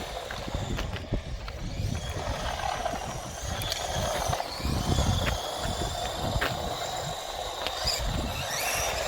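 Brushed electric motors of FTX Tracer 1/16 RC monster trucks whining, the pitch rising and falling as the trucks accelerate and turn on tarmac, with a few sharp clicks.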